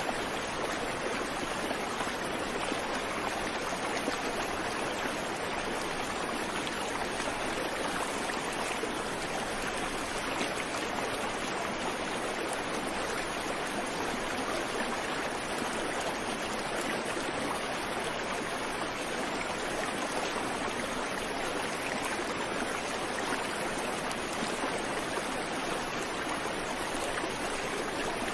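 Creek water flowing steadily, an even rushing and babbling with no birdsong.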